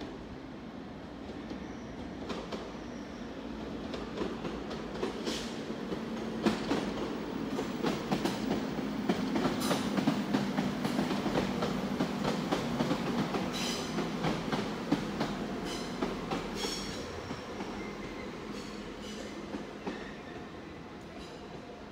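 A train passing on the rails, its wheels clicking over rail joints. The sound builds to a peak about ten seconds in and then fades, with a few brief high wheel squeals in the second half.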